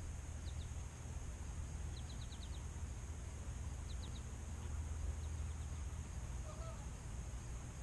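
Outdoor ambience: small birds giving short runs of quick high chirps a few times, the longest a run of five, over a steady low rumble and a steady high hiss. A brief lower call comes near the end.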